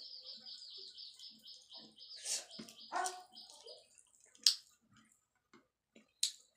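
A bird's rapid trill of short high chirps, about five a second, stopping about four seconds in, over scattered soft eating sounds and a few sharp clicks.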